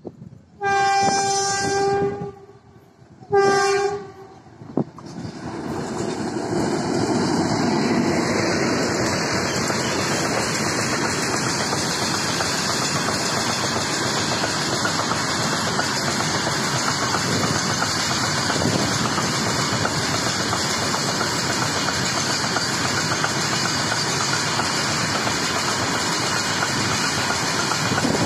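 A locomotive horn sounds twice, a longer blast and then a short one, in the first four seconds. Then a loaded freight train runs past at speed: a steady rumble and clatter of wagon wheels on the rails.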